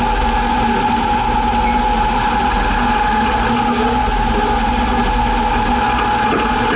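1961 Chevrolet Biscayne's engine running with a steady, even drone.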